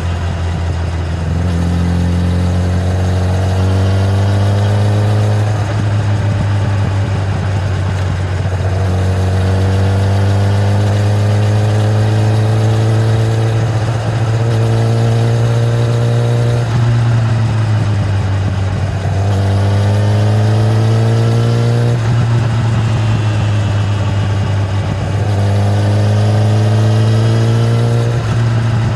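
Kawasaki ZX-10R inline-four engine on its stock exhaust, under way: the engine note climbs in pitch over a few seconds and drops back, about six times over, as the bike accelerates through gear changes, over a steady low rumble.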